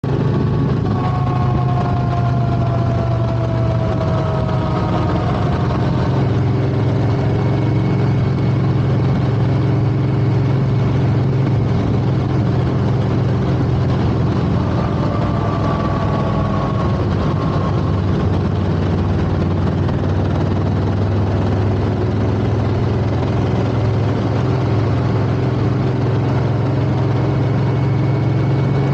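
Yamaha V-Max 1200's V4 engine running through its stock exhaust while being ridden, a steady engine note that shifts a little a few seconds in and again about midway.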